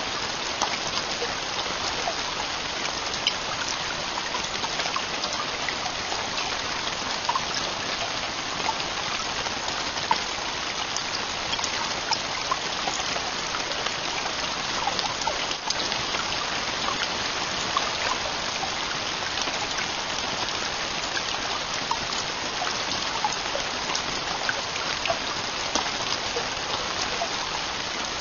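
Heavy rain falling steadily on a camping tent's roof, a constant hiss with many scattered sharp drop taps.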